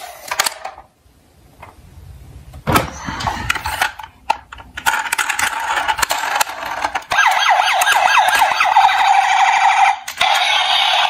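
Electronic emergency-vehicle siren wailing, rising and falling and then holding a steadier tone, with a short break near the end. A brief clatter about three seconds in, before the siren starts.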